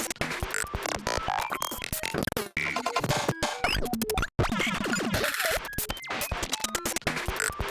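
A 140 BPM glitch percussion groove playing: dense, stuttering, chopped electronic hits with short pitch sweeps, cut off abruptly and broken by brief dropouts.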